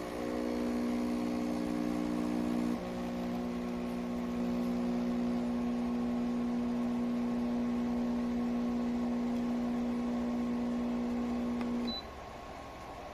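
Espresso machine's electric pump humming steadily. It shifts slightly a little under 3 s in, then stops abruptly about 12 s in, leaving a quieter background hum.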